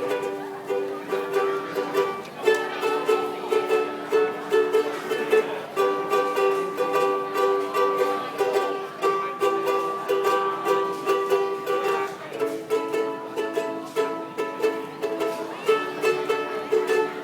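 Ukulele strummed in a steady rhythm, playing a song, with the chord changing every few seconds.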